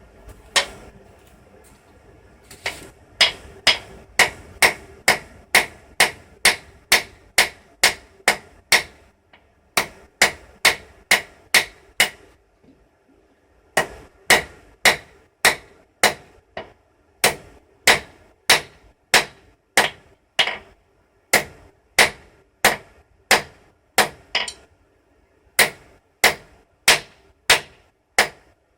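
Blacksmith's hammer forging steel on an anvil: ringing blows at about two a second, in runs broken by short pauses.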